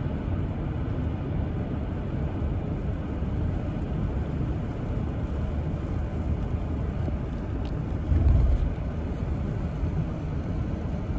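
Steady low rumble of a car being driven, heard inside the cabin, with a brief louder low surge about 8 seconds in.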